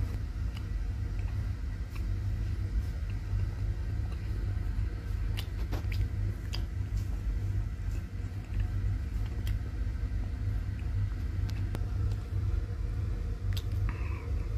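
A steady low rumble, with sparse faint clicks of a man chewing a hard, crisp kachori.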